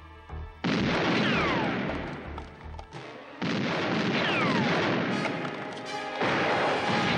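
Three loud gunshots about three seconds apart, each followed by a long echo and a falling ricochet whine.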